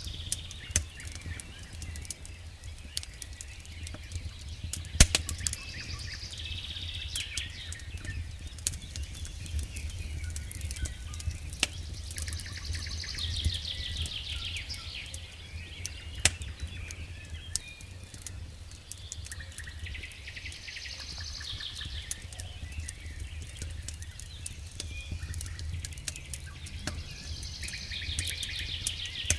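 Campfire crackling with frequent sharp pops, the loudest about five seconds in, over a steady low rumble. A songbird repeats a short, fast-trilled song phrase every six or seven seconds.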